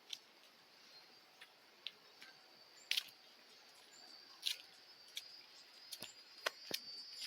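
Faint outdoor ambience with scattered sharp clicks and ticks, over a thin, steady, high-pitched hiss that grows louder near the end.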